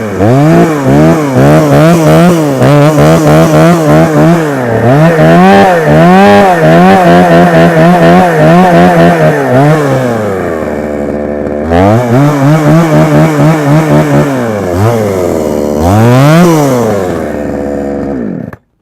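Petrol chainsaw engine, cold from a choke start, revved hard over and over: the pitch climbs to a held top speed that pulses unevenly. It falls back to a low idle about ten seconds in, revs up twice more, idles briefly and cuts off just before the end.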